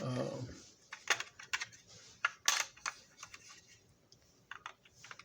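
Scattered small clicks and clacks of hard plastic and metal parts being handled, as the broken coupler is worked out of a Marx toy switcher locomotive; the loudest clack comes about two and a half seconds in, after a short low sound at the very start.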